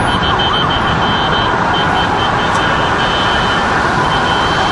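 Loud, steady street noise of traffic, with a faint high tone like an alarm that comes and goes.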